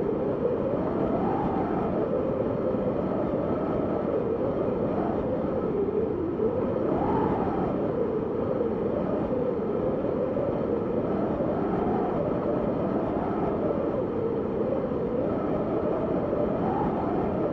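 Steady wind, a low rushing with a hollow howl that drifts slowly up and down in pitch every few seconds.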